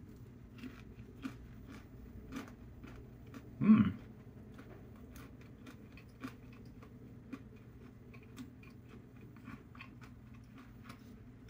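A person chewing a mouthful of a ramen-noodle-coated Korean rice hot dog, its crisp fried coating crunching in many small sharp crackles, with one brief louder sound about four seconds in.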